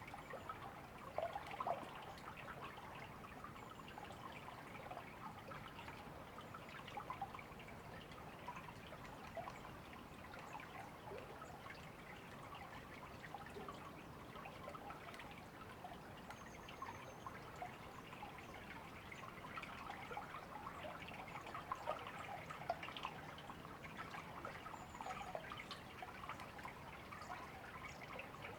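River water trickling and babbling steadily at a low level, with a few faint high bird chirps now and then.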